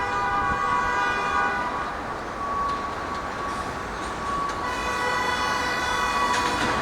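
New York City subway R160A train sounding its horn twice: a steady, many-toned blast about a second and a half long, then a second blast of about two seconds near the end, over the continuous rumble of the train.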